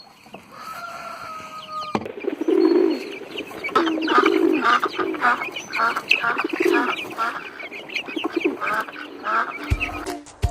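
A flock of poultry clucking and calling, with many short overlapping calls repeating over and over. Before the calls there is a steady tone that cuts off suddenly about two seconds in.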